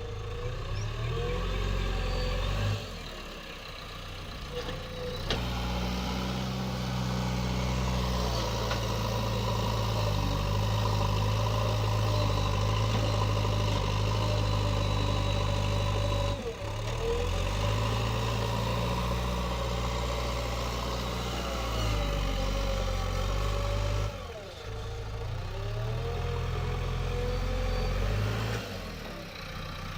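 Diesel engines of a JCB 3DX backhoe loader and farm tractors running under load while soil is dug and loaded, a steady low drone with the engine note rising and falling. The sound breaks off and changes abruptly a few times.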